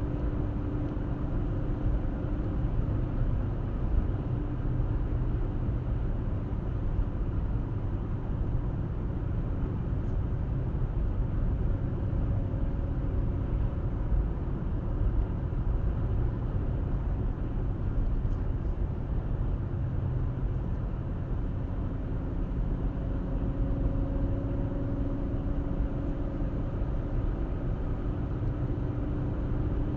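Car driving at a steady speed, heard from the dashcam: continuous tyre and road rumble with a faint engine hum that drifts slowly in pitch.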